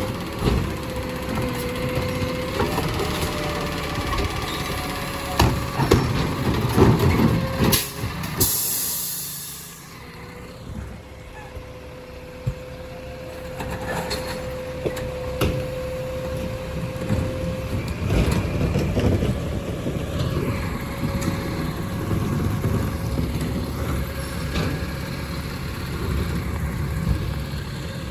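Side-loader garbage truck running, with a steady whine and several clanks, then a short burst of air-brake hiss about nine seconds in; the engine keeps running after it.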